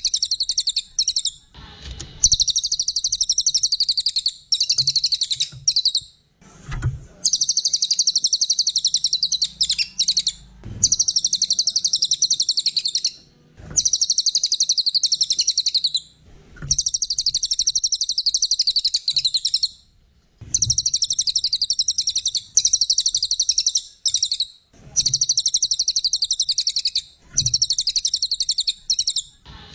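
A songbird singing long, very rapid high-pitched trilled phrases, each about two to three seconds, repeated over and over with short pauses between them.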